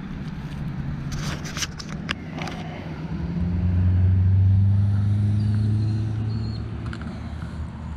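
A motor vehicle's engine passing by: a low steady hum that swells and then fades away over a few seconds, with a few sharp clicks just before it.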